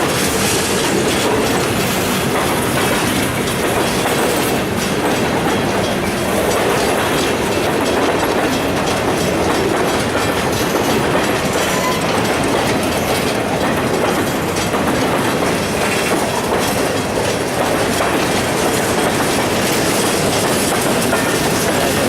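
Freight train cars rolling past at steady speed, a continuous loud rumble with wheels clacking over the rail joints.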